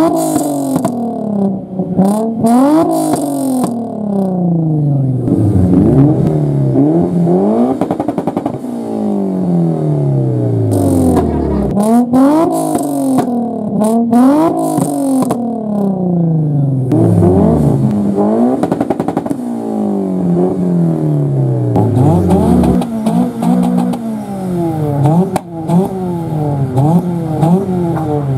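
Nissan 350Z's 3.5-litre V6 free-revving over and over: each rev climbs quickly, then falls away slowly over two or three seconds, about ten times in all. Some of the peaks carry clusters of sharp crackles.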